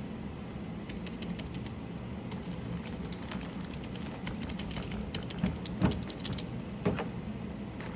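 Mechanical keyboard keys clacking in quick, uneven runs of clicks, with a couple of heavier knocks near the end over a steady low hum.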